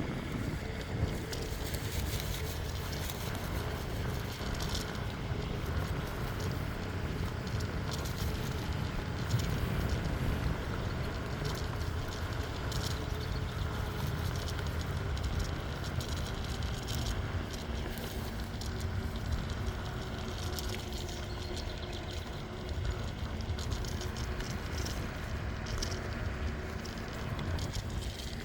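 Bicycle riding along a trail: a steady rolling rumble of the tyres and drivetrain, with scattered light clicks.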